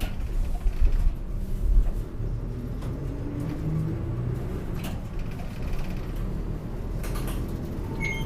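City bus engine and drivetrain running as the bus pulls away from a stop, heard inside the cabin: a steady low rumble with a faint whine rising in pitch as it gathers speed. There are several heavy low thumps in the first two seconds.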